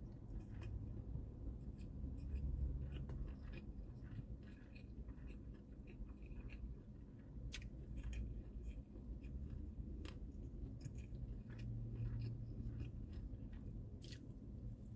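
Close-up chewing of egg roll kimbap (rice and seaweed wrapped in omelette): soft mouth noises with scattered small, sharp, wet clicks over a low rumble.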